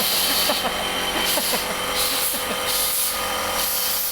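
Heidelberg SM 52 four-colour sheet-fed offset press running while printing: a steady mechanical hum with a high hiss that swells and fades in a regular rhythm.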